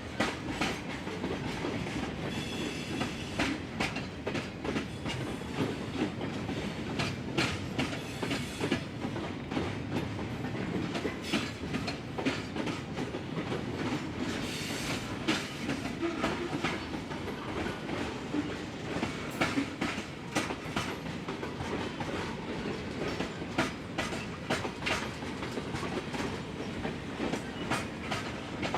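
Norfolk Southern freight train rolling past, with a steady low rumble and irregular clacks of the wheels over the rail joints.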